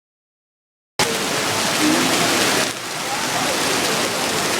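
Heavy thunderstorm rain pouring down as a dense, steady hiss, cutting in suddenly about a second in.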